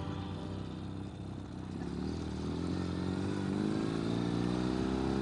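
Ural sidecar motorcycle's flat-twin engine running under way, its pitch rising gently from about two seconds in as it picks up revs, then holding steady.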